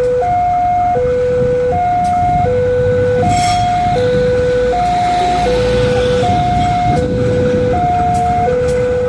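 Railway level-crossing warning alarm sounding a two-tone electronic 'ding-dong', a higher and a lower note alternating about every three-quarters of a second, over a steady low rumble.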